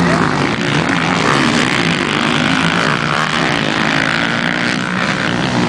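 Motocross bike engines racing, their pitch repeatedly rising and falling as the riders work the throttle, with several bikes heard at once.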